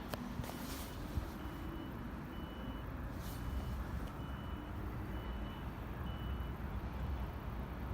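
Vehicle reversing alarm beeping, about one short high beep every three quarters of a second, over a steady low rumble.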